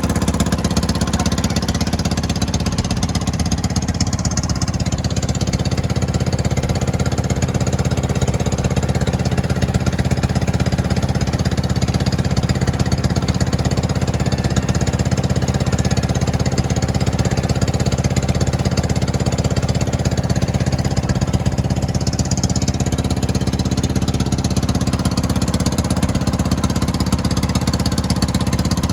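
An engine running steadily at constant speed with a fast, even chugging.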